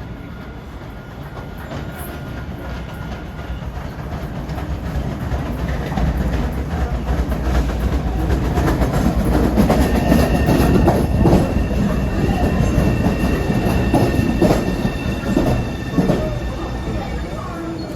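MBTA Red Line subway train pulling into the station, growing louder as it nears, its wheels clicking over rail joints. From about ten seconds in, steady high tones sound over the wheel noise.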